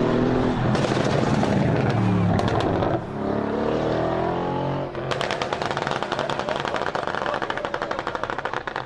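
Mercedes-AMG car engine revving up twice, its pitch climbing each time. About five seconds in it breaks into a long run of rapid crackling pops from the exhaust.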